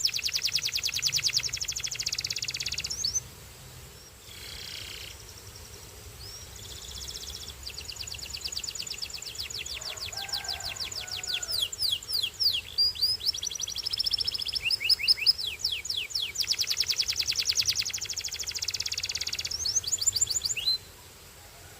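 Canary singing in long, rapid trills: fast runs of repeated high notes and quick downward sweeps. The song breaks off for about three seconds, starts again and carries on, then stops near the end.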